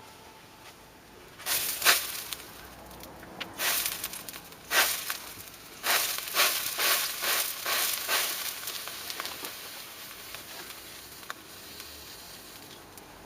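Fire burning on a model car: crackling flare-ups in several bursts in the first two-thirds, then settling to a quieter steady hiss.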